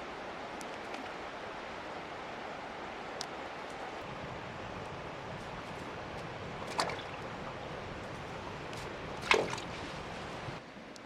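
Steady rushing of moving water, with two splashes in the second half, the second one louder.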